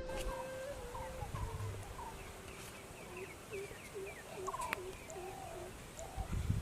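Birds calling outdoors: a run of short chirping notes repeated every half second or so, with a faint single click about three-quarters of the way through.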